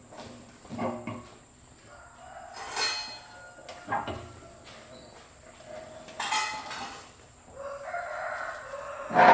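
A rooster crowing, one long call about eight seconds in, with several sharp knocks from workshop handling before it and a loud knock at the very end.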